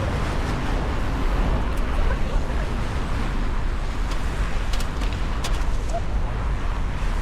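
Outdoor background noise of a walk sped up four times: a steady rumbling hiss with a few faint clicks, with chatter or traffic possibly mixed in.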